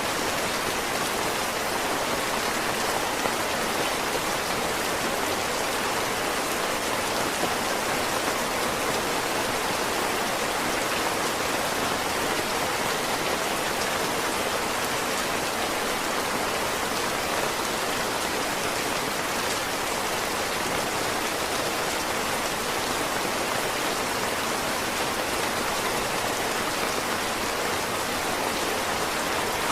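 Heavy rain falling steadily: a dense, even hiss of countless drops with no single hits standing out.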